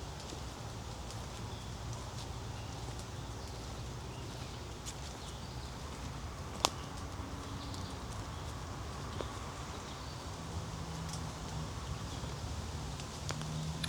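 Woodland ambience on a wet trail after rain: a steady low rumble with faint scattered ticks, and one sharp click about six and a half seconds in.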